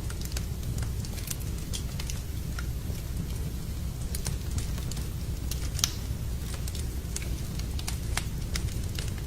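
Wood fire in a fireplace crackling, with irregular sharp pops over a steady low rumble; the loudest pop comes about six seconds in.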